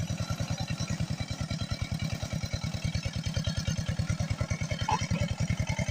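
Tractor engine running steadily while ploughing a field, an even, rapid chugging of about ten beats a second.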